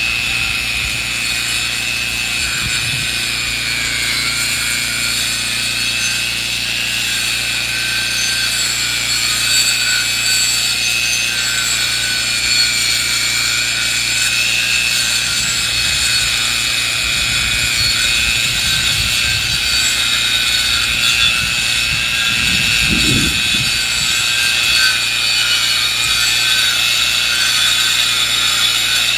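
A power saw milling a log into lumber, cutting steadily under load: a continuous high whine that wavers slightly in pitch, with a few low knocks and rumbles near the end.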